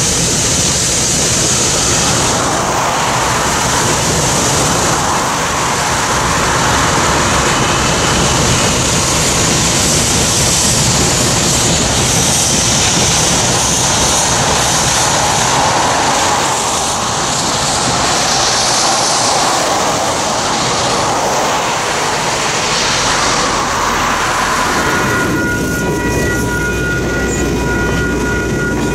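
Passenger train hauled by steam locomotive C&O #1309 rolling across a steel truss bridge, a loud, steady rolling noise. About 25 seconds in it changes to the cars rolling close by, with a steady high-pitched squeal of several tones.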